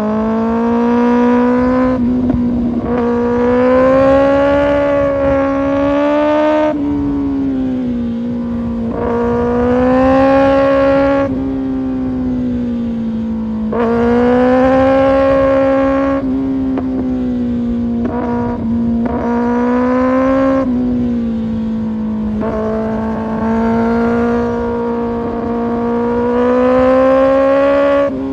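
Kawasaki Ninja ZX-6R's inline-four through an Arrow Pro Race exhaust, heard from on the bike: about six strong pulls on the throttle, each climbing in pitch and then falling away as the throttle closes, with a rush of wind underneath.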